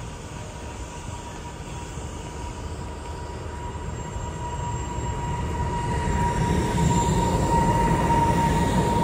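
Passenger train carriages rolling along the track with a steady, high wheel squeal. Over the last few seconds the rumble grows louder as an EP2K electric locomotive and its train come in on the next track.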